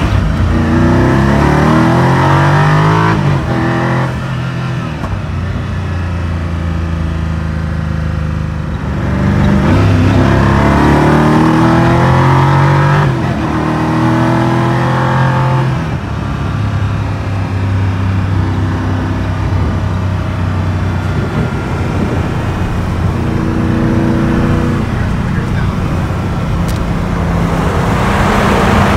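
Koenigsegg Agera RS twin-turbo V8 heard from inside the cabin on the move. It rises in pitch under acceleration near the start and again about ten seconds in, with steadier cruising and road noise between.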